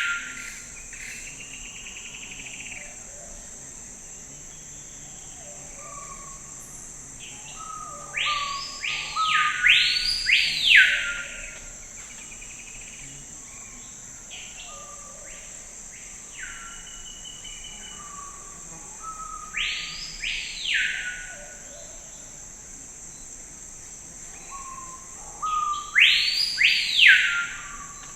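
Forest birdsong: a bird gives loud phrases of quick swooping notes three times, separated by pauses of several seconds. Beneath it runs a steady, high-pitched insect drone.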